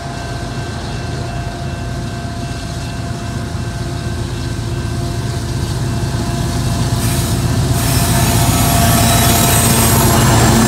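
CN freight train's diesel locomotives approaching and reaching a level crossing, engine rumble growing steadily louder. A steady ringing tone from the crossing signals sounds throughout, and a high hiss of wheels on rail joins about seven seconds in as the locomotives arrive.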